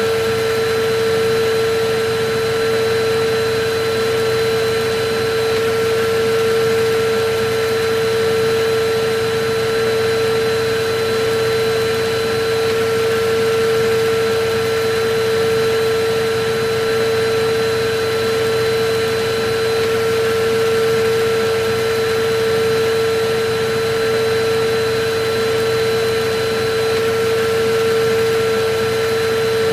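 Electric vacuum cleaner running steadily: an unbroken rush of air with a constant mid-pitched motor hum and fainter higher tones.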